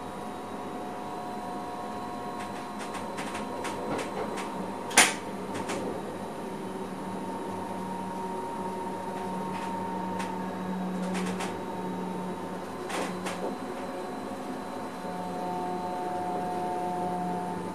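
Electric passenger train running, heard inside the driver's cab: a steady hum with several whining tones that come and go, and scattered clicks and knocks, one sharp click about five seconds in.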